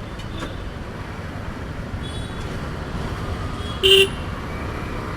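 Steady road-traffic rumble at a stop, with one short vehicle-horn toot about four seconds in.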